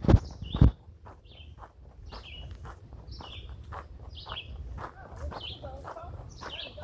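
Footsteps on a gravel path, two loud crunching steps at the start and then softer steps, while a small songbird repeats short, high chirping notes throughout.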